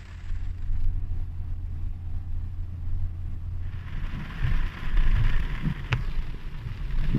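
Rain falling, with a steady low rumble through the first half. About halfway in the hiss of the rain grows much louder, with gusty low rumbles and a single sharp click near the end.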